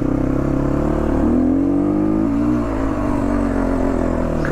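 Motorcycle engine running under way, its pitch rising about a second in and easing back down after about two seconds.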